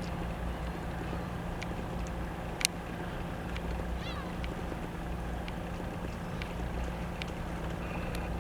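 Steady low engine hum from harbour machinery or a boat, with one sharp click a little over two seconds in and a few faint high ticks and chirps.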